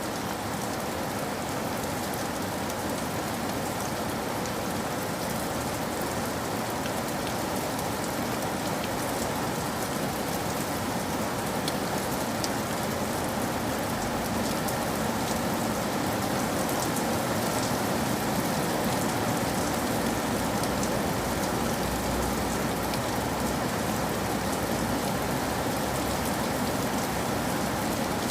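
Steady rain falling, an even hiss of drops pattering on a surface, growing slightly louder about halfway through.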